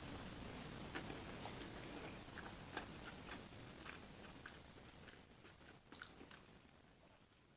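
A person chewing a mouthful of burger close to the microphone: faint, with scattered small wet clicks and smacks that thin out toward the end.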